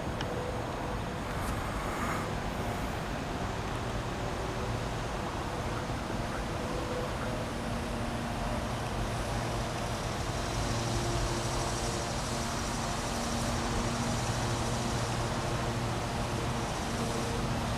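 A steady vehicle rumble with a low hum and a few steady tones, growing a little louder in the second half.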